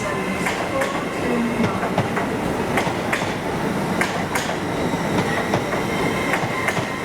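Passenger train moving through a station, its wheels clicking irregularly over rail joints and points, over a steady rumble with a thin high whine.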